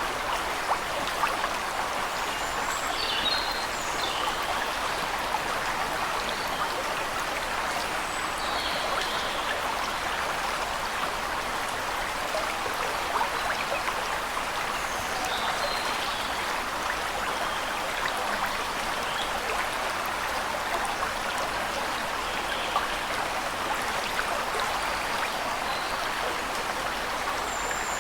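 Waterfall rushing steadily, with short high bird chirps now and then over the water.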